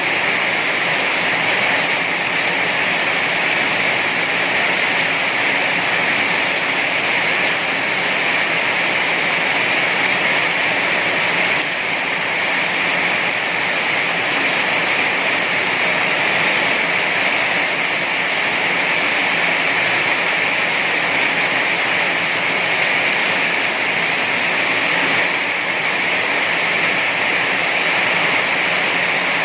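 Heavy rain falling steadily: a dense, even hiss with no distinct drops or breaks.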